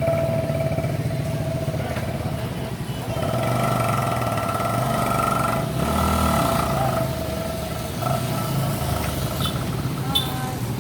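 Motorcycle engine running steadily, with a steady hum and whine.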